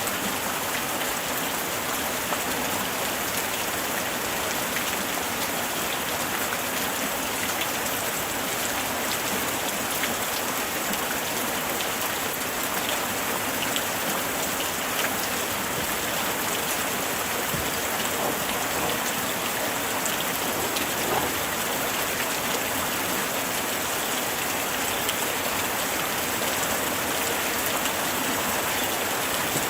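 Steady light rain falling on surfaces, an even hiss full of small drop ticks.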